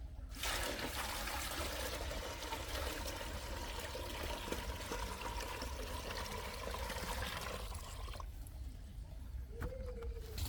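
Liquid pouring and splashing steadily for about eight seconds, then stopping abruptly.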